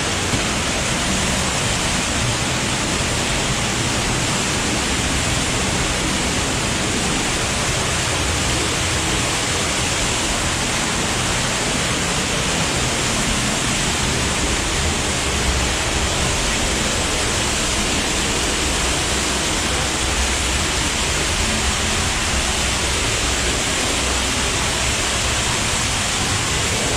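Underground waterfall in a cave stream passage, a steady, loud rush of falling water; the stream is running high.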